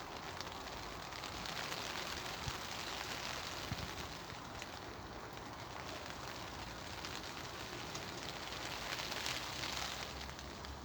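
Steady rain falling and pattering, a dense hiss of fine drop ticks that swells slightly a couple of times.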